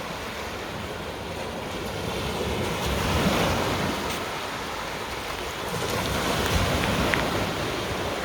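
Small waves of a calm sea washing onto a sandy shore, the wash swelling about three seconds in and again near the end.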